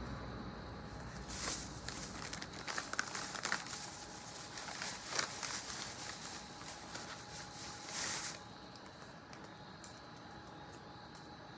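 Crinkling and rustling of a plastic food bag being handled, with many small clicks and crackles, for about seven seconds before it stops.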